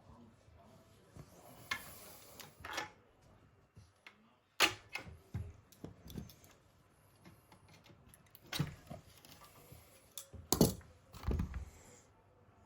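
Irregular clicks, knocks and light rattles of small hard parts being handled, with quiet gaps between them. Two louder knocks come about four and a half seconds and ten and a half seconds in.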